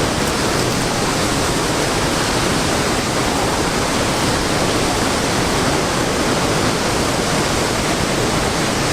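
Toketee Falls pouring into its pool: a steady, loud rush of falling water.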